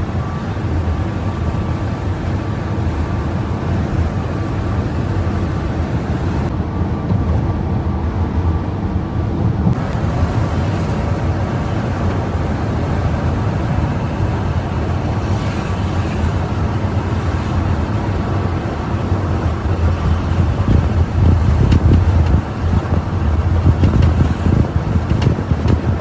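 Bus running at highway speed: a steady low engine and road rumble that grows louder in the last few seconds.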